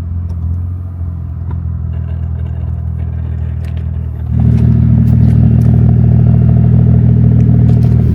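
Toyota 1JZ inline-six engine of an MK3 Supra running at a steady pitch. About four seconds in it gets suddenly louder and fuller without changing pitch, then cuts off abruptly at the end.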